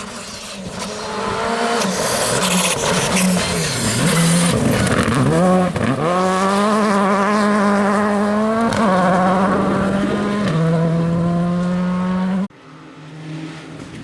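WRC2 rally car engine at racing revs on a test stage. The engine note drops and swoops back up about five seconds in as the car slows and accelerates again, then holds high with two upshifts, and the sound stops abruptly near the end.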